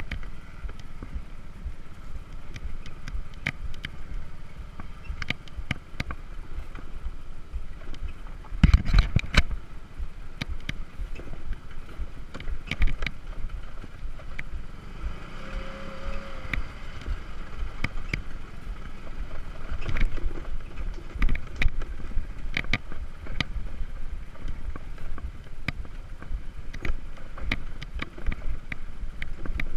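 Motor scooter riding over a rough, stony dirt track: a steady low rumble with frequent knocks and rattles from the bumps. A cluster of heavy jolts comes about nine seconds in.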